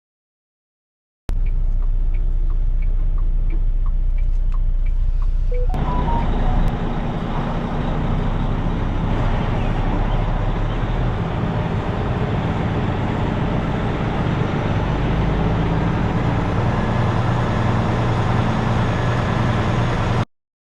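Truck engine running with a steady low rumble and faint regular ticks about three times a second. About six seconds in, it changes abruptly to a louder, rougher engine and road noise that runs until a sudden cut near the end.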